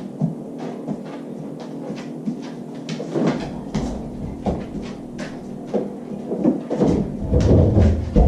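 Refrigerator door being pulled open by a dog fetching a bottle of water, with scattered knocks and clicks of the door and its contents. A louder low rumble and clatter comes in near the end.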